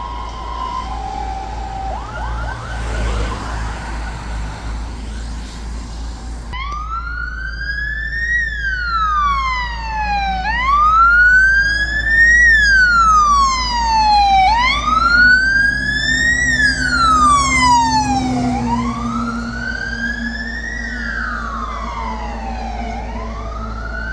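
Fire engine sirens on an emergency run: a brief two-tone hi-lo and a rising note near the start, then from about six seconds in a slow wail, each rise and fall lasting about four seconds. The siren is loudest in the middle, over a truck engine running underneath.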